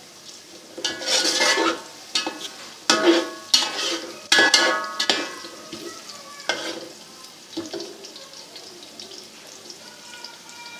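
Onions and garlic-ginger paste sizzling in ghee in a metal cooking pot while a spoon stirs and scrapes the bottom, being sautéed to cook off the raw garlic. A run of loud scraping strokes in the first half gives way to a softer sizzle with a few light scrapes.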